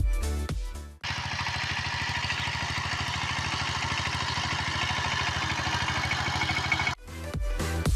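An engine idling steadily with a fast, even firing beat. It starts suddenly about a second in and cuts off about a second before the end.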